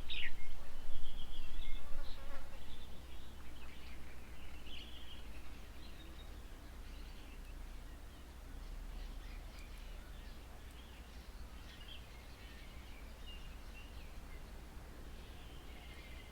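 Outdoor birds calling: many short chirps and a falling whistle, busiest and loudest in the first few seconds and thinning out after, over a low steady rumble.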